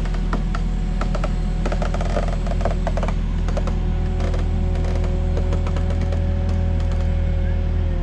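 Site forklift's engine running steadily, with a quick clatter of knocks and rattles over the first half.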